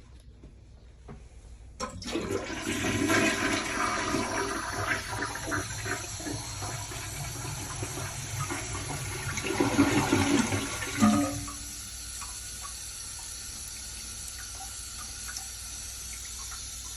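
A toilet flushing: water rushes out starting about two seconds in and drains with a gurgle around eleven seconds in. After that, a steady, quieter hiss of running water continues.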